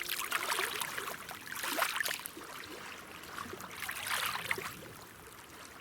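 Water trickling and splashing with many fine drips, swelling about three times and then fading away near the end.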